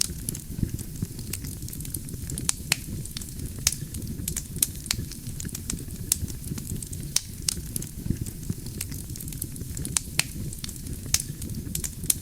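Wood campfire burning: a steady low rumble of flames with irregular sharp crackles and pops from the burning wood, a few each second.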